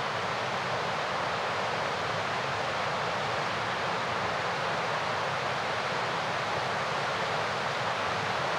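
Steady rushing of a fast mountain river, an even roar of water with no breaks.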